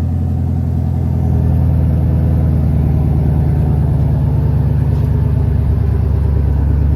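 A car engine idling loudly and steadily, its low exhaust note pulsing quickly and evenly, a little louder from about a second in.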